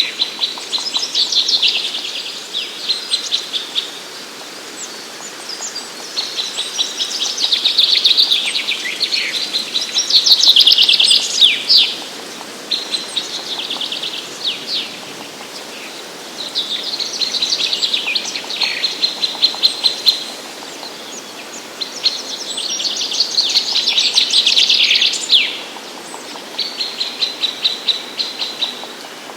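Wild songbirds singing, with overlapping phrases of rapid high notes. A new phrase starts every few seconds, and some end in a quick downward flourish.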